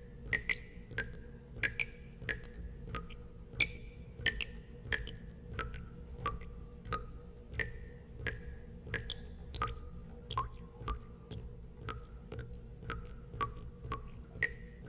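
Water drops falling into water, each a sharp plink with a short ringing tone, coming unevenly at about two a second and at varying pitches, over a low steady rumble.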